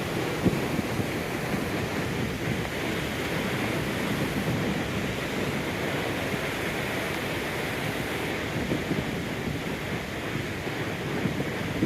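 Ocean surf breaking and washing over a rock pool: a steady rushing wash with a rough low rumble, wind buffeting the microphone.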